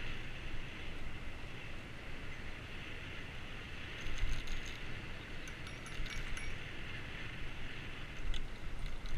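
Riding noise from a bicycle-mounted action camera: steady wind and low rumble, with light metallic jingling rattles about four seconds in and again near the end.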